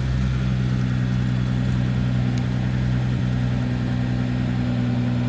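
Nissan R35 GT-R's twin-turbo V6 idling steadily as it warms up.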